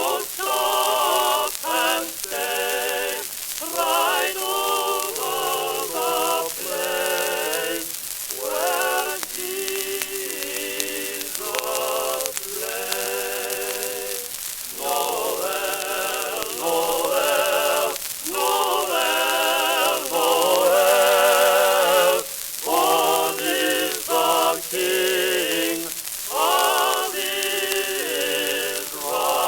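Singing from an early-1900s shellac phonograph record: voices with strong vibrato in phrase after phrase with short breaks, over a steady hiss and crackle of record surface noise.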